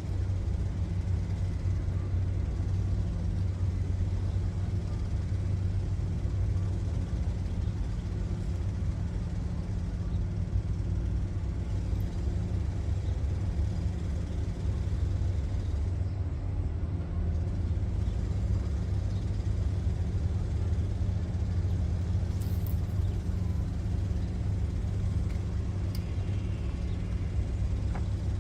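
An engine running at a steady speed, a constant low drone that does not change.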